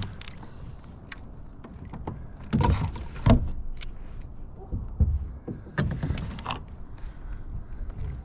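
Irregular knocks, thumps and clicks of handling inside a fishing kayak, the loudest about three seconds in and again around five and six seconds.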